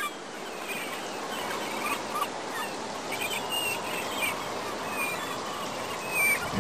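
Birds chirping, a scatter of short whistled calls over a steady rushing background noise.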